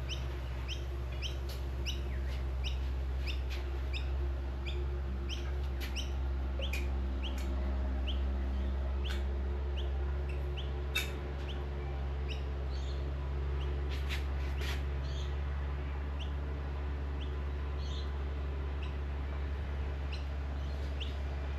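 A small bird chirping repeatedly in quick short notes, two or three a second, thinning out about halfway through, over a steady low hum. A few sharp clicks come in the second half.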